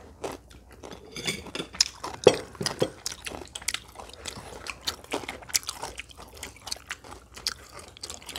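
Crispy fried chicken being bitten and chewed: a string of irregular crunches, the loudest about two seconds in.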